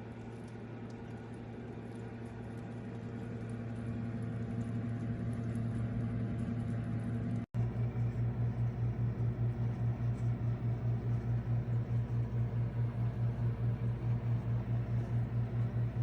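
Toshiba countertop microwave oven running with a steady low electrical hum that swells over the first several seconds. After a sudden cut about halfway, the hum pulses about four times a second.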